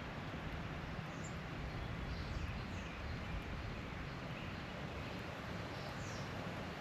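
Steady outdoor background noise with a low hum, and a few faint, short bird chirps.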